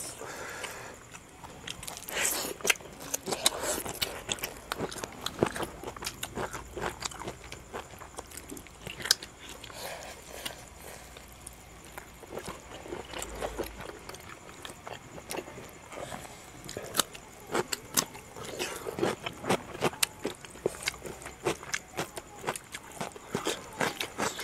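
Mouth sounds of two people eating pork curry and rice by hand, close to a clip-on microphone: chewing and lip smacks, heard as irregular sharp clicks, several a second at times, along with fingers working the rice on the platter.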